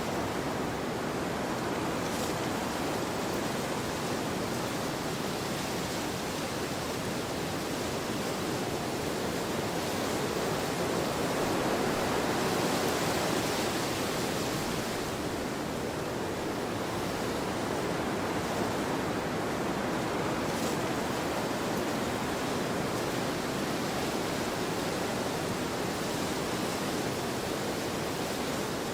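Wind blowing steadily across a field: a continuous rushing noise that swells slightly about halfway through.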